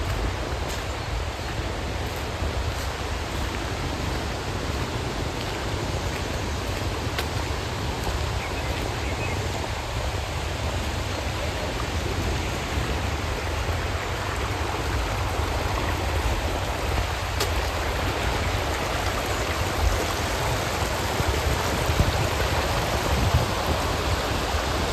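Steady hiss of rain and wind outdoors, with wind buffeting the microphone as an uneven low rumble and a couple of faint clicks.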